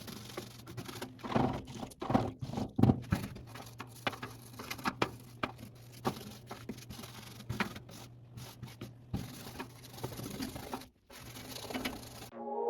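Small scrubbing brush working over a washing machine's dirty surfaces with hot water: irregular brushing strokes and light knocks, over a low steady hum.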